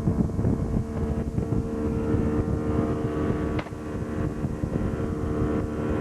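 Boat motor running steadily, a continuous engine hum over a low rumble, with a short sharp click about three and a half seconds in.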